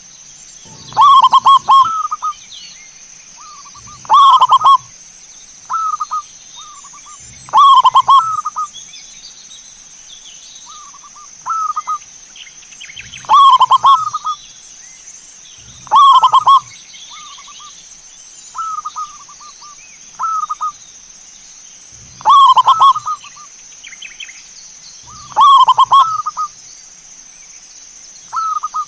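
Zebra dove (perkutut) cooing: short rolling coo phrases repeated every few seconds, some loud and some softer, with a steady high-pitched tone underneath.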